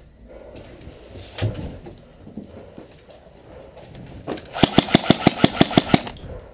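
Airsoft rifle firing a fully automatic burst: about ten rapid sharp shots, roughly seven a second, starting past the middle and lasting about a second and a half, with a single thud earlier on.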